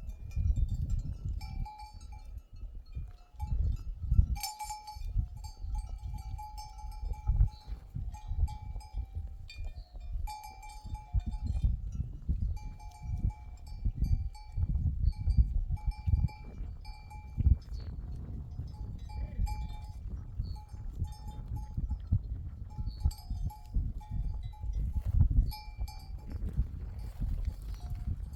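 Bells on a grazing flock of sheep clanking irregularly as the animals move. Underneath is a low gusty rumble, the loudest part of the sound.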